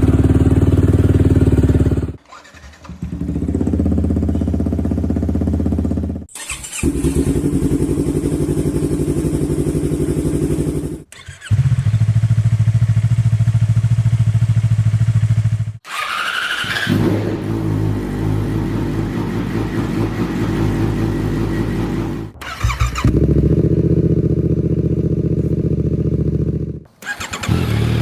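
Yamaha YZF-R series sport-bike engines starting and running, heard as a run of short clips cut together, each a steady engine note that breaks off abruptly into the next. About halfway through, a brief rising whine comes just as one engine starts.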